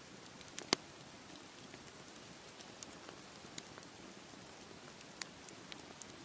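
Wood campfire crackling, with scattered sharp pops, the loudest about 0.7 s in. Underneath is a steady hiss of sea waves washing on the shore.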